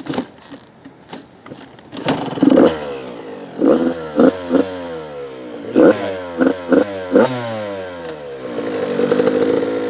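85cc two-stroke dirt bike being kick-started: the engine catches about two seconds in and is blipped through a string of quick revs, then settles into a steady, higher held note near the end as the rider gets ready to pull away.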